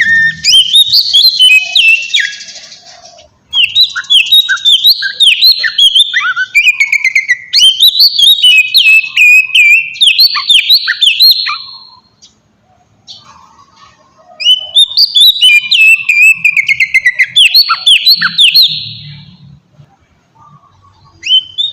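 Oriental magpie-robin (kacer) singing loud, fast phrases of sliding whistled notes, with a pause of about two seconds midway. This is a challenge song used as a lure to provoke rival magpie-robins into answering.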